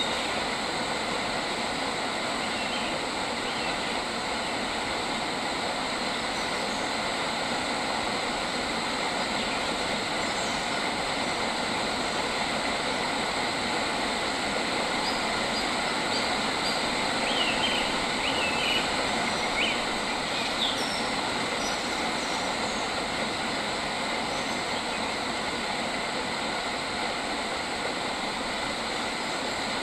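Steady outdoor ambience: an even rushing noise throughout, with a few brief bird chirps in the middle.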